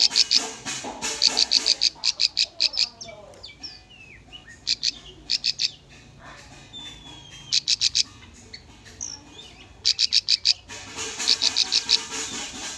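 Bar-winged prinia (ciblek) calling in bursts of rapid, sharp, high chips, several notes to a burst, repeating every second or two. Softer twittering and short whistled glides fill the gaps between bursts.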